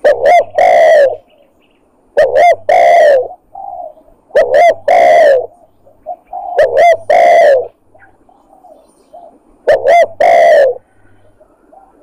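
Spotted dove (tekukur) lure call: the cooing phrase of two short notes and a longer, slightly falling note, repeated five times about every two seconds, with a longer gap before the last.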